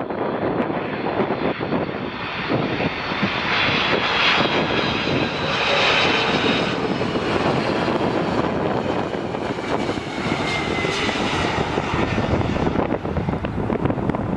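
Jet airliner passing, its engine noise and high whine swelling to a peak a few seconds in, then the whine sliding down in pitch as it moves away, with wind buffeting the microphone.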